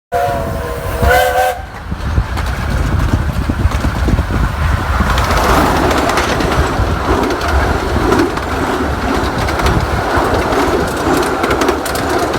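A 15-inch gauge miniature railway locomotive gives two short chime-whistle blasts, then the train runs on with a steady rumble and clatter of wheels on the rails.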